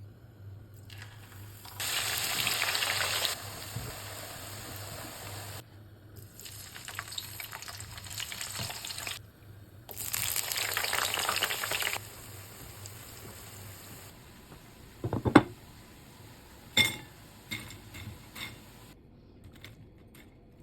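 Potatoes and eggplant frying in hot oil, sizzling in stretches that start and stop abruptly, loudest twice for about two seconds each. Several sharp knocks follow near the end.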